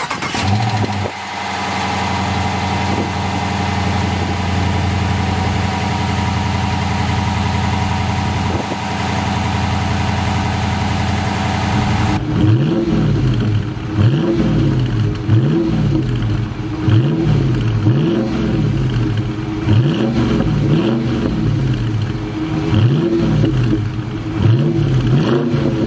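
The 5.7-litre Hemi V8 of a 2023 Dodge Challenger R/T starts up and settles into a steady idle. About halfway through, heard from the exhaust tips, it is revved about ten times in quick succession, each rev rising and falling in pitch, one a little over every second.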